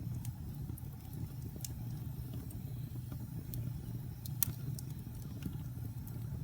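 Wood fire burning in a fireplace: a steady low rumble of flames with scattered sharp crackles and pops, the loudest pop about four and a half seconds in.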